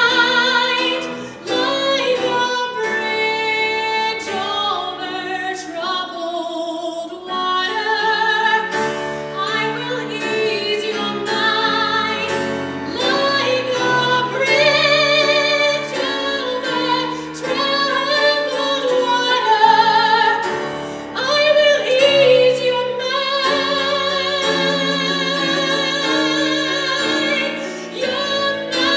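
A woman singing in a trained, operatic style, holding long notes with strong vibrato, with piano accompaniment.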